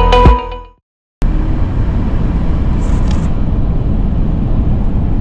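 Electronic background music ends and, after about a second of silence, gives way to the steady low rumble of a vehicle driving on the road.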